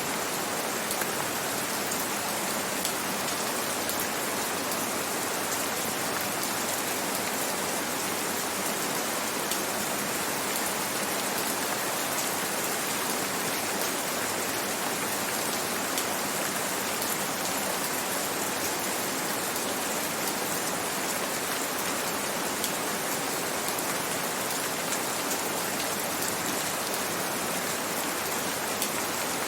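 Gentle rain falling steadily: an even hiss of many small drops, with no let-up or change.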